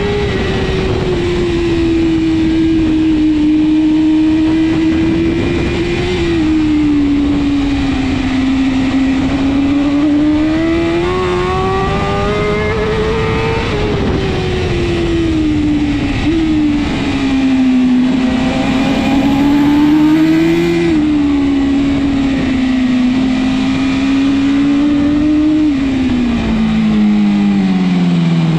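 BMW S1000RR superbike's inline-four engine racing at high revs, the pitch climbing and dropping again and again as it accelerates and brakes through corners, with sudden steps at the gear changes. Near the end the revs fall sharply as it slows hard.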